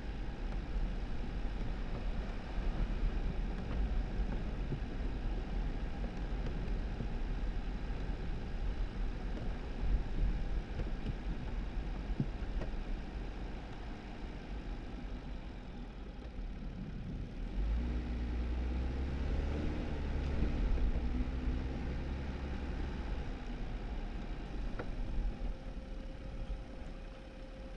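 2018 Jeep Wrangler driving on a snowy dirt road: a steady low rumble of tyres and engine. About two-thirds of the way through the road rumble eases and a steady engine hum stands out for a few seconds, and a faint steady tone comes in near the end.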